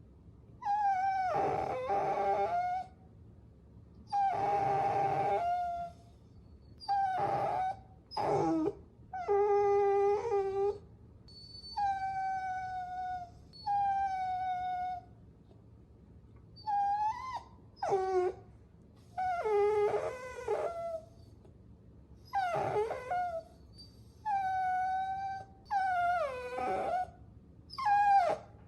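Puppy whining: a series of high, drawn-out whines, each a second or two long and many falling in pitch at the end, with short pauses between.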